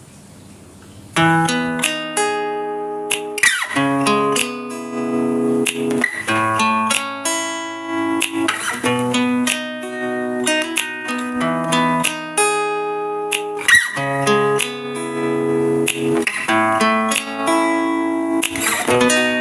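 Background acoustic guitar music, plucked and strummed chords; it starts about a second in after a short near-silent gap.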